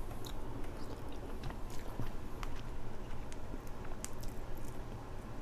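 Close-miked eating of crab: scattered small clicks and crackles of shell being worked apart, with chewing.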